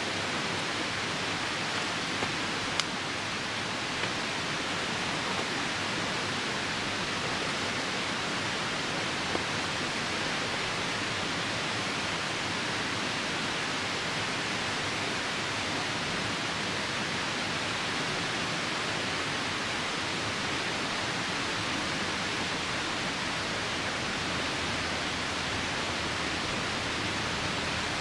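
Steady rushing noise of a nearby river and rain, with a few sharp pops from a wood campfire in the first ten seconds.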